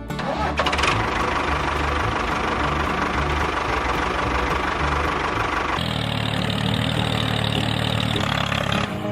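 Engine running steadily, its sound changing abruptly about six seconds in.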